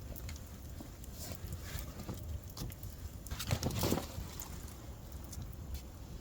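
Camping gear being handled: rustling of canvas and blanket with scattered light taps, louder for a moment about three and a half seconds in.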